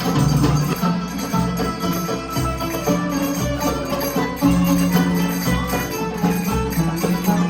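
Live band music with sustained melody notes over a steady low beat.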